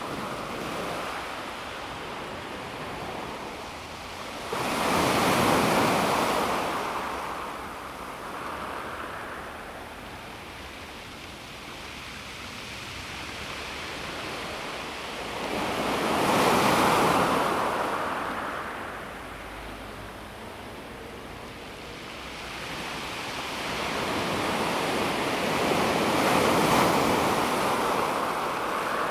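Calm sea waves washing onto a pebble beach, three times in about half a minute, each wave swelling up and then drawing back with a hiss over the pebbles.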